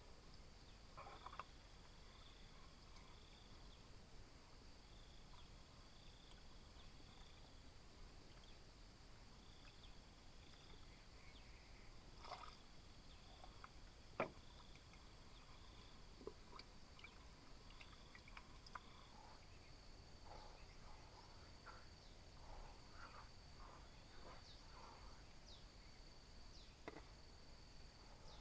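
Faint outdoor insect chorus: a steady high buzz, with a second high trill that comes and goes in short repeated bursts for the first half. A few soft clicks and taps sound over it, one sharp click about halfway through.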